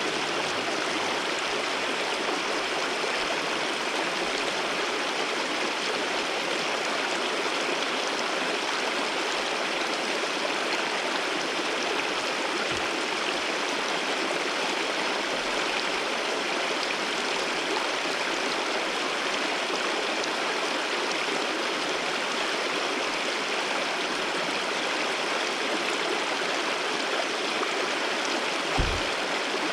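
Waterfall water rushing in a steady, even flow. A brief low thump comes about a second before the end.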